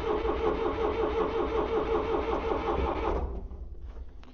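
Starter motor cranking the 1972 Allis Chalmers M65 grader's flooded gasoline engine with the choke off and the throttle open. It turns over in a steady, rhythmic beat without catching, then stops about three seconds in and winds down.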